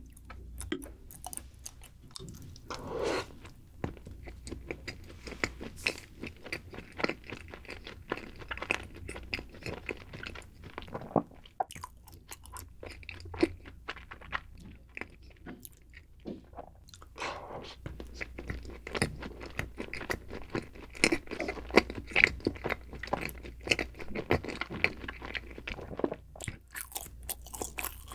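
Close-miked chewing of a chocolate-coated dessert: crisp crunches of the chocolate coating breaking between the teeth, with soft wet mouth sounds, going on unevenly throughout.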